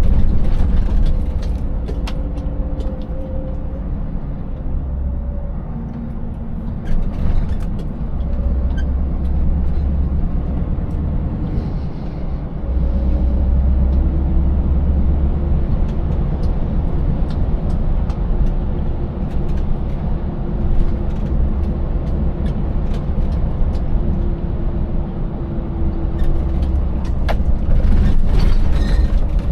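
Scania 590S V8 truck engine running on the move, a deep rumble whose note shifts up and down with engine speed. Many short clicks and knocks sound over it, bunching together near the end.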